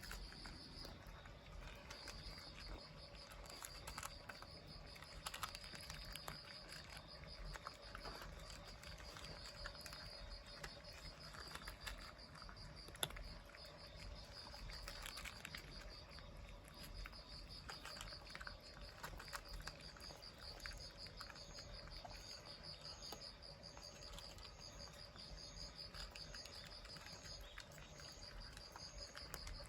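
Faint insect chirring: a steady, rapidly pulsing high trill, joined about two-thirds of the way in by a second, higher insect calling in short pulses about twice a second. Scattered faint clicks sound over it.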